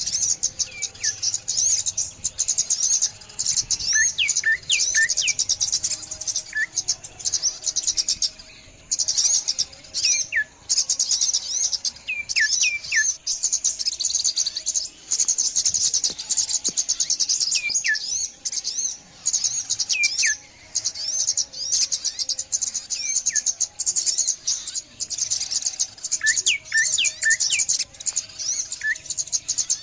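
Morning chorus of small songbirds, sunbirds among them: dense, rapid high-pitched chirping, with short falling whistles every second or two.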